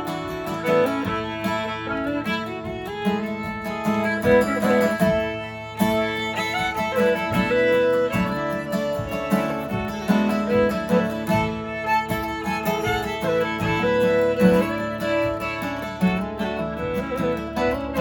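Instrumental folk tune played on string instruments, a melody line over a plucked accompaniment, with a very short break a little under six seconds in.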